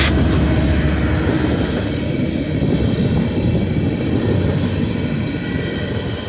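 Long freight train rolling past at close range: a steady, loud rumble of steel wheels on rail with faint steady high-pitched ringing above it, and a sharp click right at the start.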